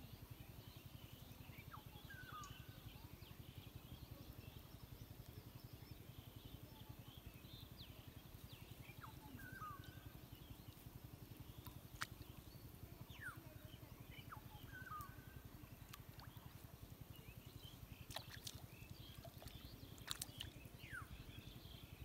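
Faint rural ambience: birds calling with short falling chirps and whistles, one of them repeating the same short call every few seconds, over a low steady hum. A few sharp clicks stand out in the second half.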